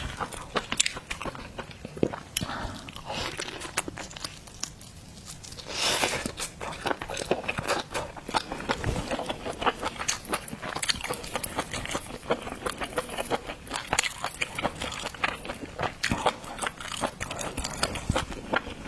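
Close-miked eating of shellfish: chewing and crunching with many quick wet mouth clicks. It goes quieter about four seconds in, then comes a louder crunch about six seconds in.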